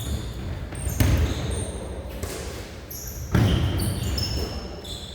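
Basketball game on a court: the ball thumps on the floor about a second in and again just past three seconds, among short high-pitched squeaks of shoes on the floor.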